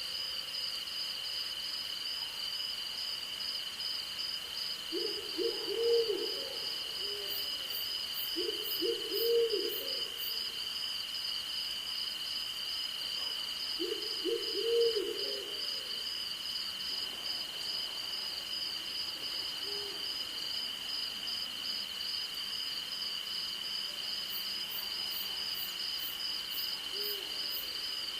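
An owl hooting in short multi-note series, three times in the first half and then faintly twice more, over a steady night chorus of crickets and other insects trilling without a break. Brief runs of high ticking come in twice.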